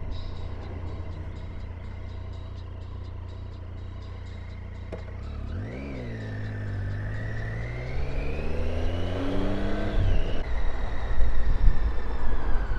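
Triumph Tiger 800's three-cylinder engine running on the road. Its pitch dips and climbs again about six seconds in, then rises steadily as the bike accelerates, with a change about ten seconds in, likely a gear shift. It grows louder toward the end.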